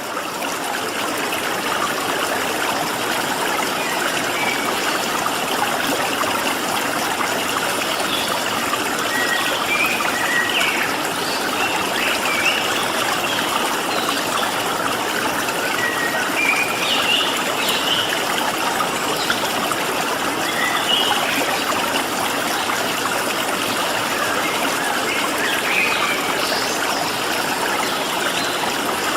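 Steady rush of a flowing stream, with small birds chirping now and then over it from about eight seconds in.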